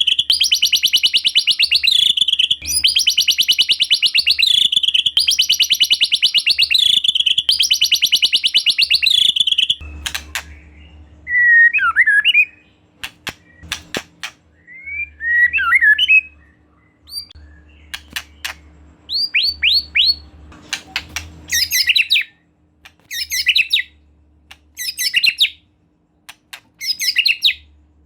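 White-rumped shama singing: five rattling churrs of about two seconds each, the agitated ketrekan call, then a run of separate whistles, quick chirps and short trills.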